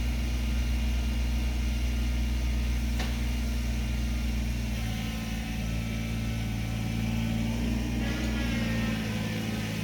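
An engine idling steadily, its note shifting slightly about halfway through and again near the end.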